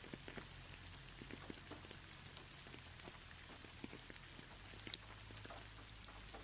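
Light rain falling: a faint steady hiss with scattered individual drops ticking, over a low steady hum.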